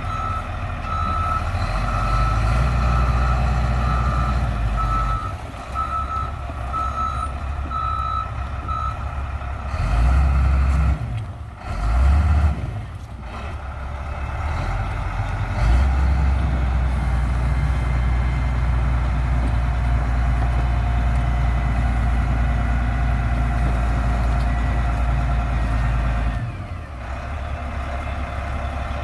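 Motor grader's diesel engine working, with its reversing alarm beeping about once a second for the first nine seconds. The engine note swells and drops several times, with a long spell of heavier running through the second half.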